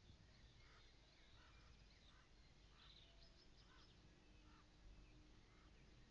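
Near silence: quiet outdoor ambience with a run of faint, short bird calls in the first two thirds, over a low steady hum.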